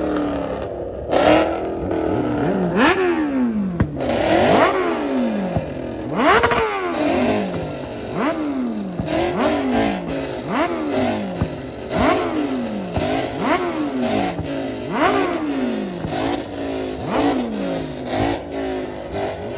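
Ford Mustang engine free-revving in repeated blips, about one every second and a half. Each blip rises sharply in pitch and falls back.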